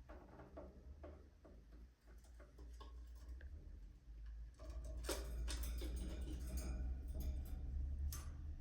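Budgerigars in an aviary making rapid soft clicks and taps with faint short chirps. It grows busier and louder about five seconds in.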